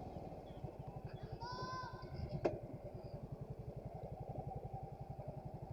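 Motorcycle engine running at low revs with an even pulsing. About one and a half seconds in comes a brief pitched beep or call, and about a second later a sharp click.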